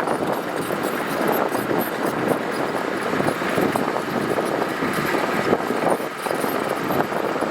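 Heavy earthmoving machinery working gravel: a diesel engine running under dense, continuous clattering and crunching.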